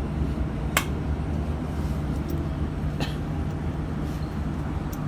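Interior of a Kawasaki-Sifang CT251 metro train: a steady low rumble, with two sharp clicks, one about a second in and one about three seconds in.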